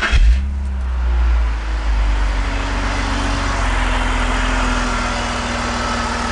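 BMW E46 straight-six engine firing up: it catches with a brief rise in revs in the first second or so, then settles into a steady idle. The engine is running with fuel pressure below spec, which the owner takes to be a failing fuel pressure regulator.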